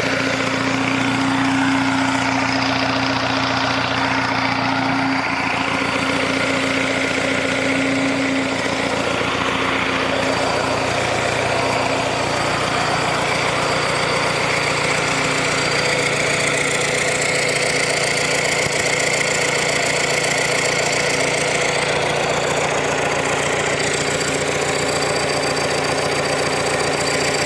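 Hyundai B39 engine running steadily at idle on its first start after a general overhaul. Its note shifts slightly about twelve seconds in.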